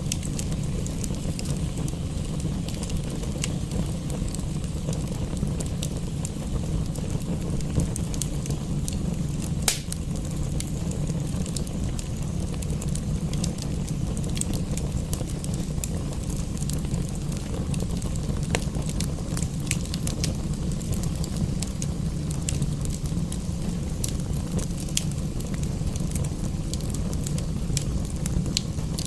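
Wood fire crackling in a fireplace: scattered sharp pops over a steady low rumble, with one louder pop about ten seconds in.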